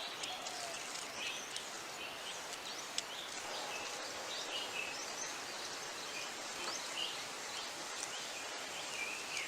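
Outdoor background of small birds giving many short, high chirps over a steady hiss.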